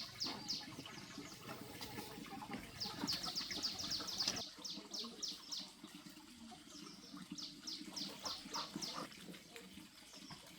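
Ducklings peeping: short, high, downward-sliding peeps in quick runs of several a second, over a low rumble that drops away about four seconds in.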